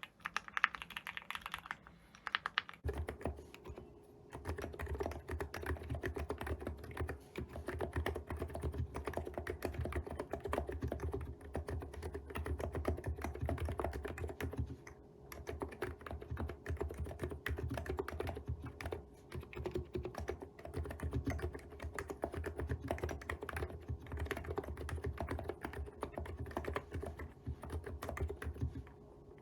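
Fast, continuous typing on an enthusiast keyboard, keystrokes clattering without a break. About three seconds in the sound changes abruptly to a deeper, fuller clack.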